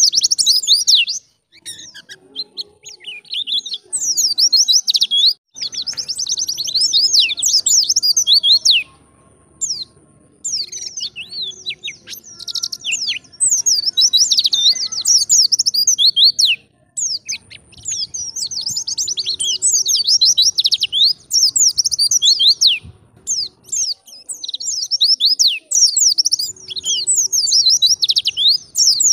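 White-eye (pleci) singing a fast, high, chattering song in phrases of several seconds, with short breaks between them.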